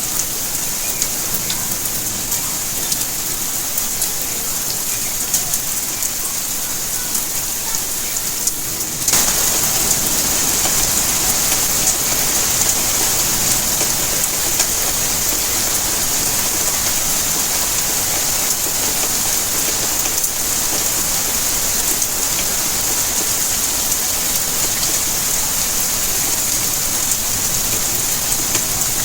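Steady rainfall that suddenly turns heavier and louder about nine seconds in, then holds steady.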